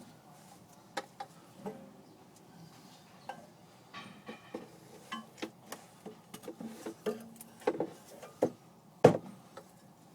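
Scattered clicks, knocks and clinks of hand work on a car's fuel tank pipe as the new part is fitted, coming more often in the second half, with one louder knock near the end.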